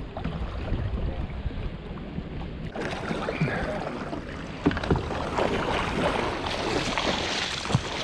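Canoe on the water with splashing and hollow knocks against the hull. A rush of splashing noise starts about three seconds in.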